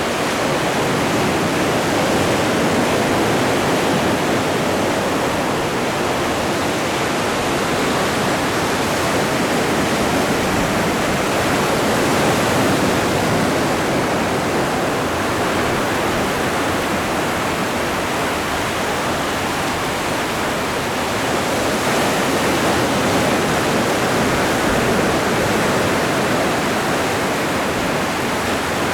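Continuous wash of Atlantic surf, an even rushing noise that swells and eases slowly about every ten seconds, with no single crash standing out.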